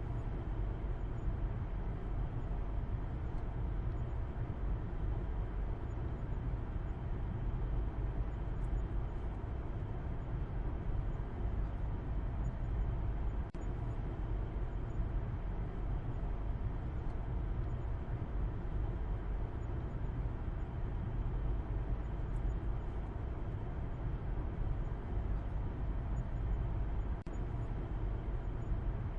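Steady noise of a car on the move: an even, deep rumble with a softer hiss above it, dipping briefly twice.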